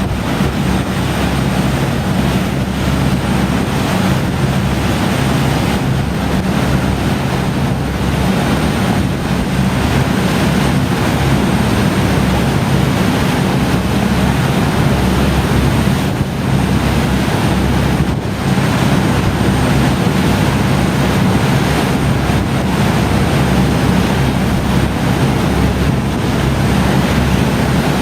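Ferry under way: the engines give a steady low drone under a continuous rush of water and wind, with wind buffeting the microphone.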